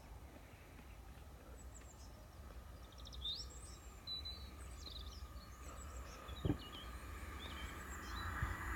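Small birds chirping and twittering in short high calls over a faint, steady low rumble, with a single soft knock about six and a half seconds in.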